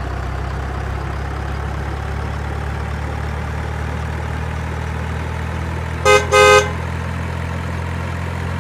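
Truck engine idling steadily, with two short horn honks about six seconds in, the second slightly longer.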